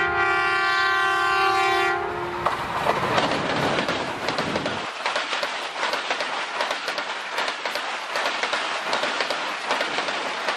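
Diesel train's horn sounding one steady chord that cuts off about two seconds in, followed by coaches passing close by with a continuous rattle and clatter of wheels over the rails.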